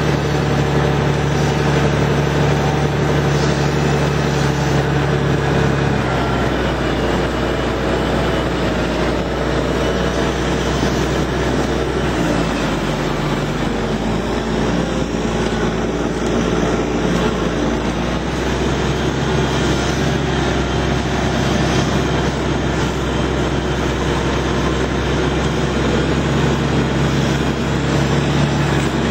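Steiger tractor's diesel engine running steadily under a constant load. Its note drops about six seconds in and comes back up at around twenty seconds.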